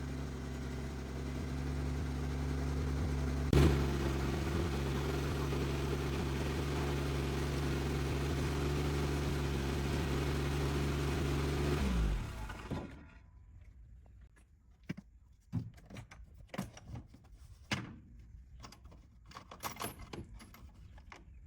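Suzuki engine running steadily, with one sharp click about three and a half seconds in. About twelve seconds in it is shut off and runs down, leaving scattered small clicks and handling noises.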